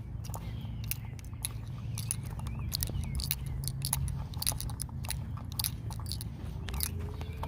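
Irregular crunching with many sharp clicks over a low, steady rumble.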